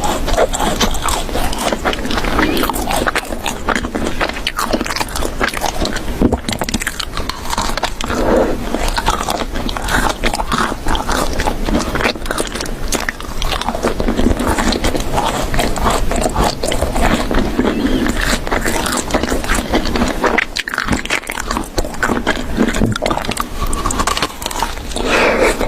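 Close-up chewing and biting noises with scraping, likely an animal eating or gnawing near the microphone.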